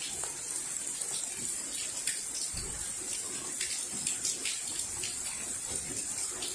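Rain falling steadily during a thunderstorm, with scattered sharp drips and taps close by.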